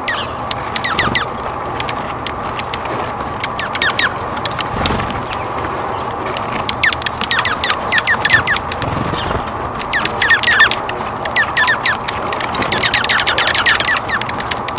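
Small birds chirping and calling in short clustered bursts over a steady outdoor background hiss.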